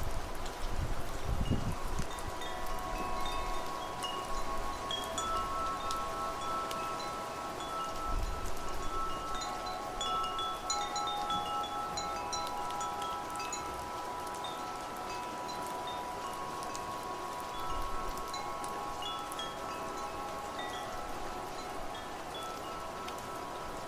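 Wind chimes ringing continuously in the wind, their overlapping tones sustaining over a steady rushing background, with low gusty rumbles near the start and again about eight seconds in.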